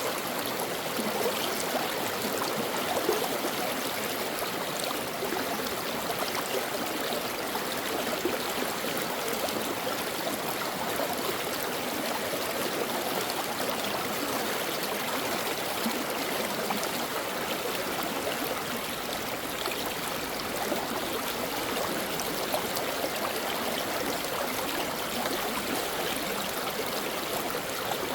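Stream water flowing and gurgling over rocks, a steady rush with constant small splashes and trickles.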